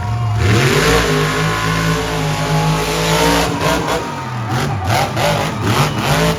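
Monster truck engine revving hard: it climbs in pitch about half a second in and holds, then gives a series of sharp throttle blips that rise and fall over the last few seconds.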